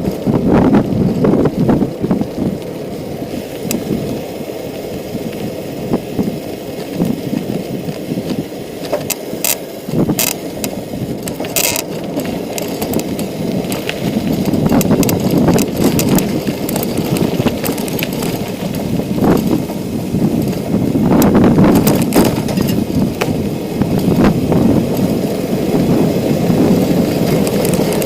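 Bicycle ride over a rough forest path: a steady rolling rumble from the tyres and bike, with clicks and rattles scattered through, thickest about a third of the way in.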